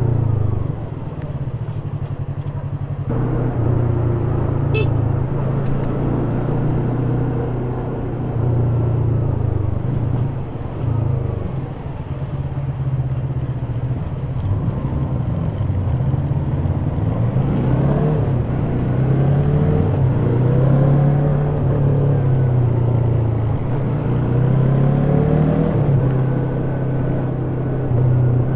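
Yamaha YZF-R3's 321 cc parallel-twin engine running through its stock exhaust while riding, the revs rising and falling several times as it accelerates and eases off.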